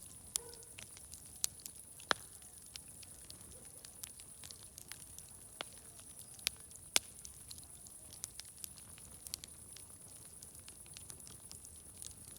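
Wood fire crackling: irregular sharp pops and snaps, the loudest about two and seven seconds in, over a steady high-pitched hiss.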